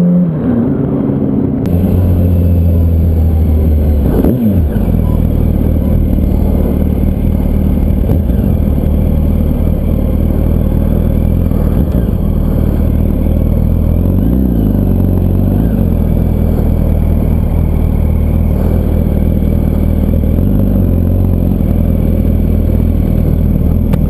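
Yamaha R1's inline-four engine running at a steady pitch, with brief changes in revs about four seconds in and again around fourteen seconds.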